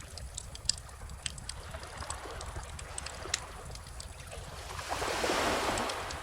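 Wood bonfire crackling with scattered sharp pops, over the low rush of calm ocean surf; a wave swells and washes in about five seconds in.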